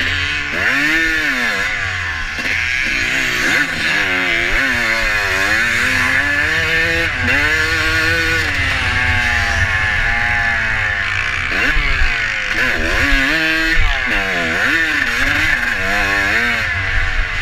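Vintage motocross bike's engine, recorded onboard, revving up and dropping back again and again as the throttle is opened and shut through the course's turns and gear changes, over a steady rushing noise.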